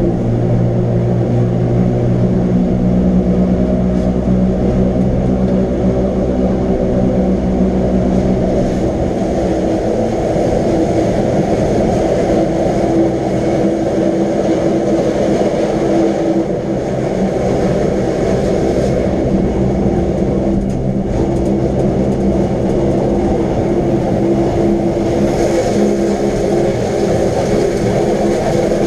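Wengernalpbahn electric rack-railway train running steadily, a dense rumble with the steady hum of its traction motors. The hum changes pitch about nine seconds in.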